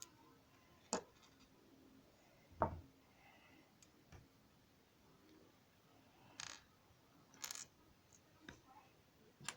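Scattered small clicks and knocks of Lego plastic pieces being handled, about seven in all, the loudest a dull knock about a third of the way in.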